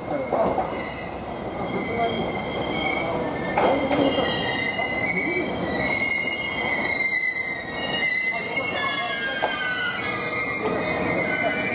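A JR East GV-E400 series diesel-electric railcar pulls slowly into the platform, squealing with several high steady tones over the rumble of its wheels. Some of the squeal tones slide downward in pitch in the second half as it slows to a stop.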